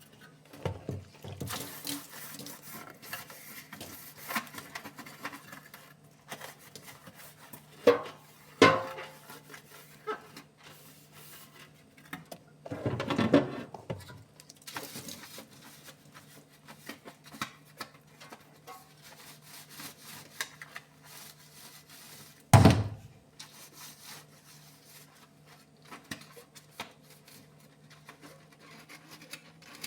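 Household items clattering and knocking as a refrigerator is cleaned out: scattered clinks and bumps of dishes and containers, with a few sharper knocks and a brief rattling clatter, over a low steady hum.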